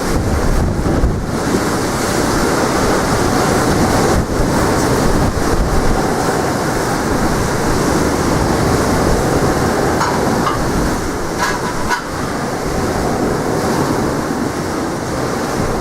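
Wind buffeting the microphone in heavy gusts, over the wash of waves breaking on the shore.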